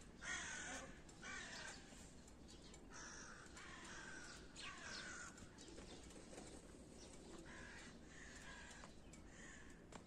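Faint, repeated short calls of birds, many of them in an irregular series.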